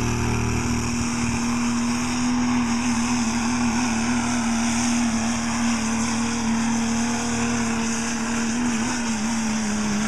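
Diesel pulling pickup's engine held at high, steady revs under full load as it drags the pulling sled down the track; its pitch sags slightly near the end.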